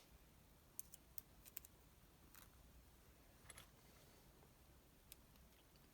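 Faint, scattered clicks and light taps, about seven in all and spread unevenly, from engine parts and tools being handled during piston and ring fitting; otherwise near silence.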